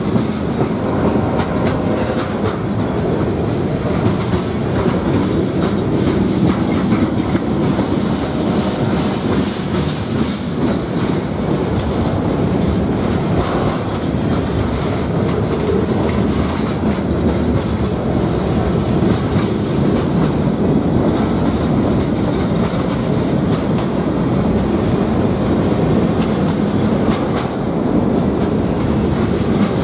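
Freight train cars rolling past close by: a loud, steady rumble with the clickety-clack of steel wheels over the rail joints.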